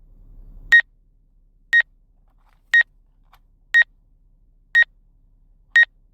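Electronic warning beeps: a short high beep repeating evenly about once a second, six times.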